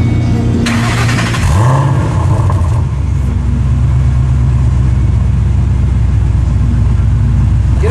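Ford Shelby GT500 supercharged V8 starting through Stainless Works long-tube headers, catted X-pipe and 3-inch chambered-muffler exhaust: a burst of cranking about a second in, a quick flare of revs as it catches, then a steady low idle.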